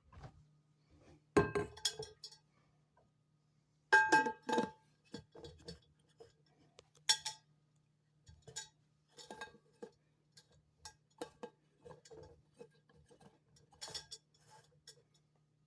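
Hard objects clinking and knocking: scattered sharp clinks, some with a short ring, the loudest about a second and a half in and again at four seconds, over a faint steady low hum.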